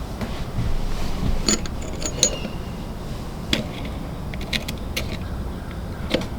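Metal parts of a monkey wrench clicking and tapping as they are handled, with a few short metallic pings, over a steady low hum.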